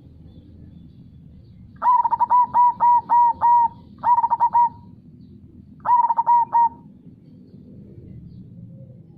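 Zebra dove (perkutut) singing: three phrases of quick repeated coos, the first of about six notes and two shorter ones after it. Under them is a steady low rush of flowing river water.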